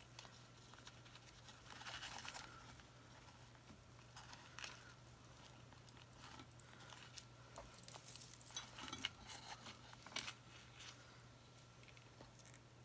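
Faint handling noises of hands working with craft materials: soft rustling and scattered small clicks and taps, a few a little louder, over a faint steady low hum.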